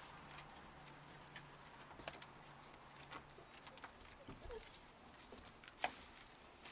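Faint, scattered clicks and light taps of pets moving about, with one sharper click about six seconds in.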